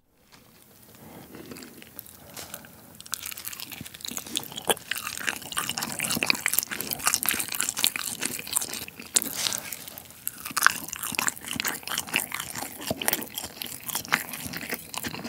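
Close-miked eating: a mouthful of food being chewed, with crisp crunches and wet clicks. It starts soft and becomes denser and louder after a few seconds.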